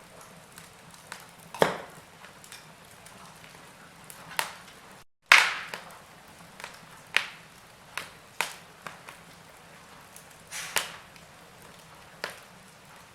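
Wood fire in a fireplace crackling: irregular sharp pops and snaps, about one or two a second, over a faint steady hiss, the loudest pop about five seconds in.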